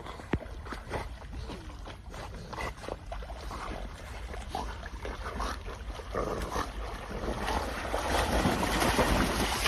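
Wind on the microphone over water noise, with scattered small knocks, growing louder toward the end.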